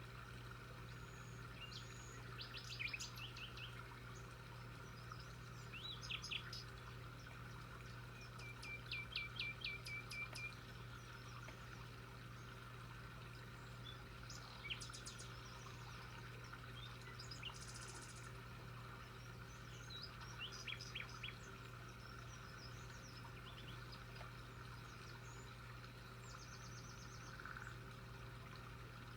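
Small birds chirping in short scattered phrases of rapid repeated high notes, with a steady low hum underneath.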